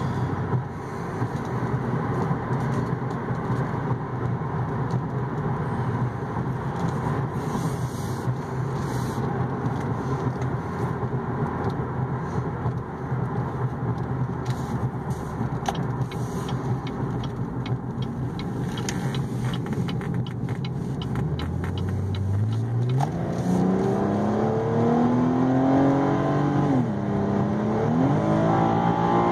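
Cadillac ATS's direct-injected V6 and road noise while driving, steady at first. About three-quarters of the way through, the engine accelerates hard: its pitch climbs, drops back once as it shifts up, then climbs again.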